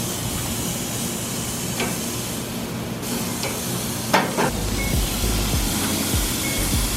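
Chicken drumsticks sizzling on a hot grill grate, a steady hiss, with a few sharp clicks about four seconds in and a low rumble joining soon after.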